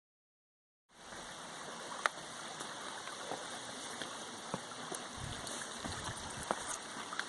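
Shallow river running low over rocks, a steady rush of flowing water that starts abruptly about a second in, with a few faint clicks over it.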